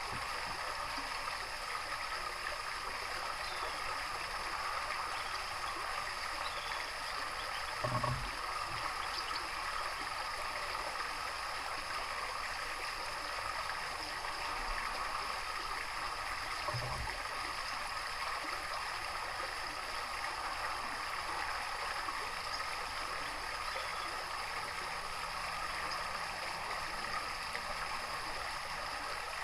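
Steady running water, a continuous trickling rush. Two short, dull low thumps break in, about eight seconds in and again near seventeen seconds.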